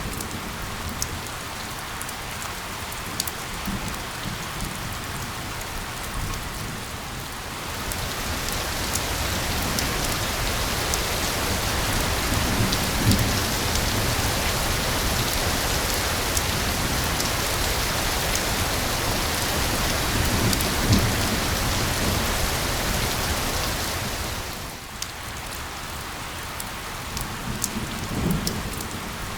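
Steady rain hiss blended with white noise, with scattered drop ticks and a few low rumbles of thunder. The rain grows heavier after several seconds and eases back a few seconds before the end.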